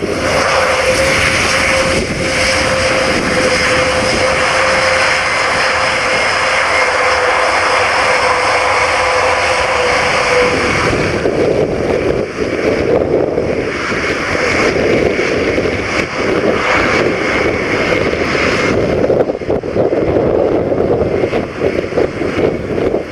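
Airbus A400M's four TP400 turboprop engines running on the ground, a loud rushing noise with a steady whine that drifts slightly down in pitch and drops out about ten seconds in.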